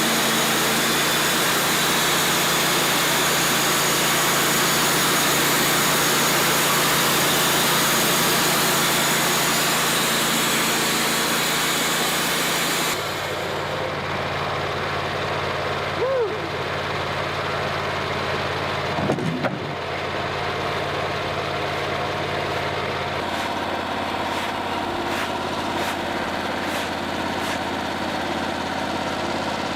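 An engine running steadily under a loud, even hiss for about the first half. The hiss cuts off suddenly, leaving the engine running more quietly, with a few knocks a little later.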